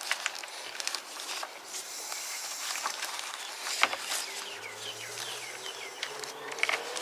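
Scattered sharp clicks and light clatter, with a run of short chirps in the middle.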